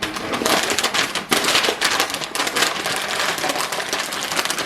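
A portion of deer meat being wrapped by hand in plastic wrap and freezer paper: a continuous, irregular crinkling and crackling.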